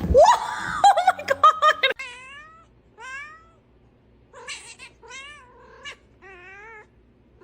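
A cat meowing repeatedly in long, wavering meows, about five of them, after a loud burst of quick, short animal cries in the first two seconds.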